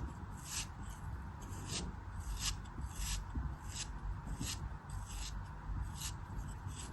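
Repeated short scraping strokes of a blade working through a soft, crumbly material such as soap or kinetic sand, about two a second, over a steady low hum.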